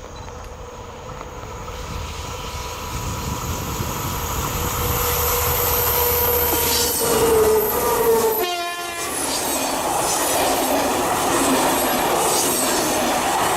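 A train hauled by two SNCF BB 67400-class diesel locomotives approaches, growing steadily louder while a sustained horn note sounds. From about nine seconds in it passes close at full volume with the rattle of its wheels.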